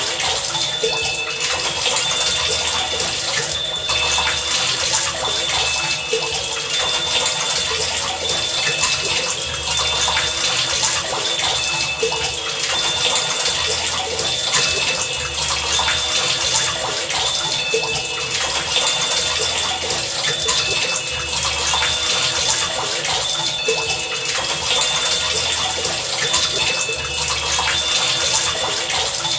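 Heavy rain, a steady dense hiss, with short high-pitched notes scattered through it and a low pulse about every two and a half seconds.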